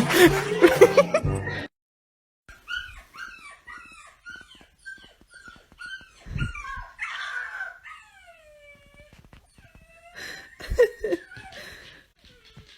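A dog whimpering: a run of short, high yips, two or three a second, then a few long falling whines, and louder yelps about ten seconds in. It opens with a moment of music that cuts off.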